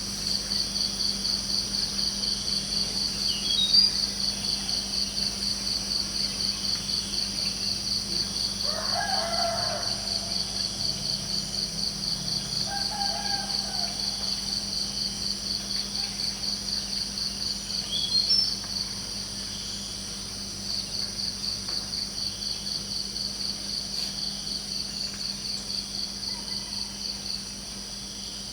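Crickets chirping in a steady, even pulse, with two short bird chirps and a distant rooster crowing about nine seconds in, followed by a shorter call a few seconds later.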